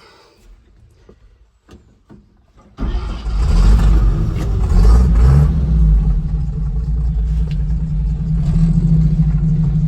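1954 Chevrolet 3100 pickup's inline-six engine cold-started on the choke: a few faint clicks, then it fires nearly three seconds in, revs up briefly and settles into a steady idle.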